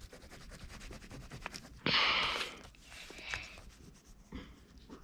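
Oil pastel scratching and rubbing across paper in short colouring strokes, with one louder, longer scratchy stroke about two seconds in.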